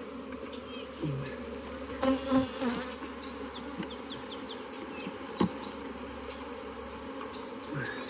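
Honeybees from an opened hive buzzing steadily in a dense hum, with a few light knocks and scrapes of hive frames being handled, the clearest about two seconds and five and a half seconds in.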